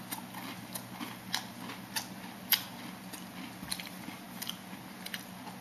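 Someone chewing crunchy food close to the microphone: irregular crisp crunches about every half second, one louder about two and a half seconds in, over a steady low hum.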